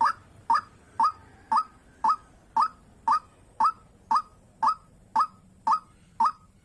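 White-breasted waterhen (dahuk) calling: one short, slightly rising note repeated very evenly, about twice a second.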